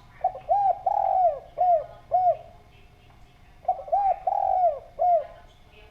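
Spotted dove (derkuku) cooing: two phrases of about five rounded coos each, the second phrase starting about three and a half seconds in.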